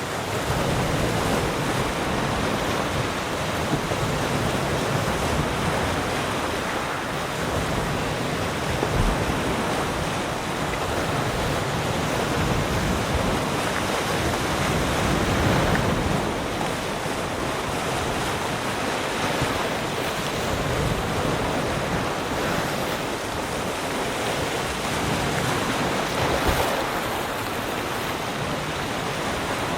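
Ocean waves breaking and washing onto a shore, a continuous surf hiss that swells and eases gently without pause.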